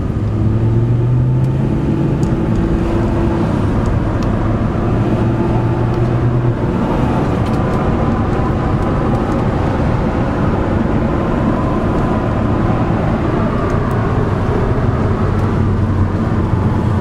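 A car's engine running with a steady low drone over road and traffic noise; the drone eases back about six seconds in and strengthens again near the end.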